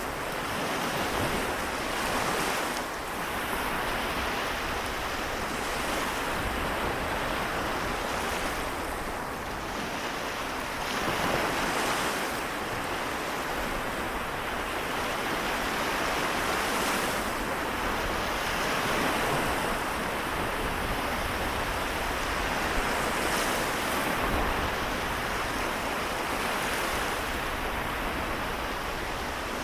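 Small waves breaking and washing on the Seto Inland Sea shore, a continuous surf wash that swells gently every few seconds.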